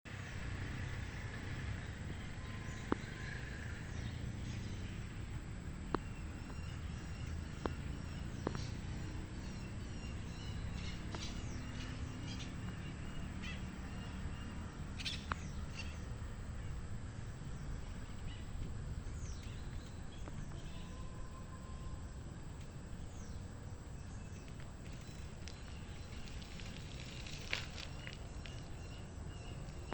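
Scattered faint bird calls over a steady low rumble, with a few sharp clicks spread through.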